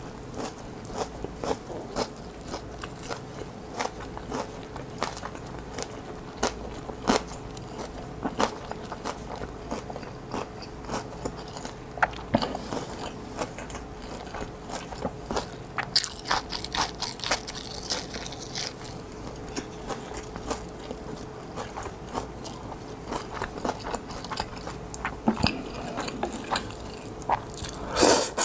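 Close-miked chewing of a mouthful of whole kimbap roll (rice with kimchi fried rice wrapped in seaweed): wet mouth clicks and light crunching. At the very end a loud slurp of ramen noodles begins.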